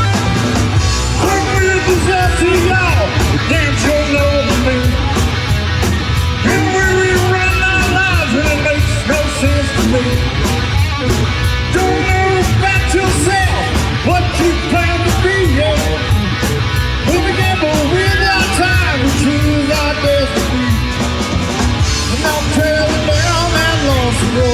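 Live rock band playing an instrumental break: a lead electric guitar line with bending notes over bass guitar, drums and steady cymbal strokes.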